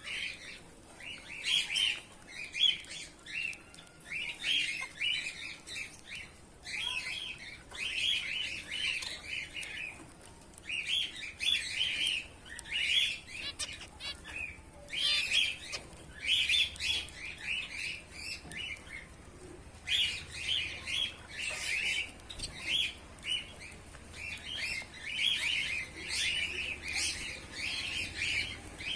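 A colony of caged Bengalese finches chirping. Many short, quick chirps run in phrases of a second or two, with brief pauses between them.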